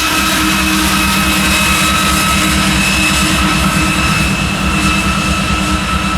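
Diesel freight locomotives running under power: a steady high turbocharger whine over a low engine rumble.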